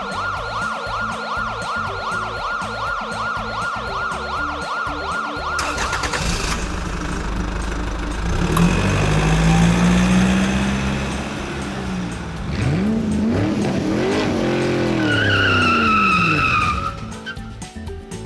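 A siren-like tone warbling about three times a second, cutting off about six seconds in. Then an engine revs up and down, with a high screeching squeal like tires near the end.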